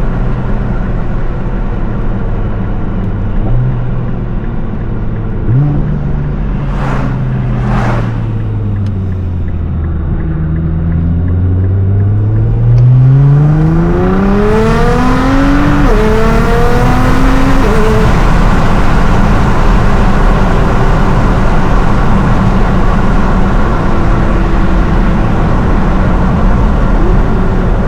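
Nissan R35 GT-R's twin-turbo V6 heard from inside the car: revs sink off the throttle with two sharp cracks, then it pulls hard, revs climbing with two quick upshifts before settling into a loud, steady run under heavy road and wind hiss.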